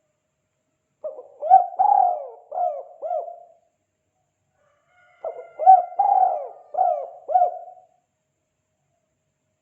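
Spotted dove (tekukur) cooing its 'kuk 2' call: two phrases of about five soft, arching coos each, one starting about a second in and the next about five seconds in.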